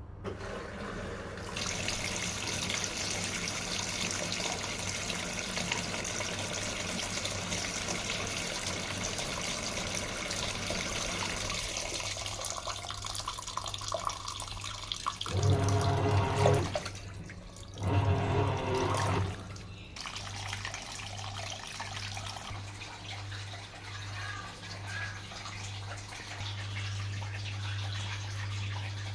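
Washing machine filling with water: a steady rush of inflowing water. About halfway through come two louder humming bursts a second or so apart, then a low hum with a faint pulse.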